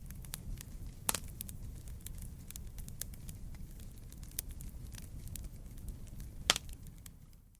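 Wood campfire crackling: a steady run of small snaps and ticks over the low rumble of the burning fire, with two loud pops, one about a second in and one near the end.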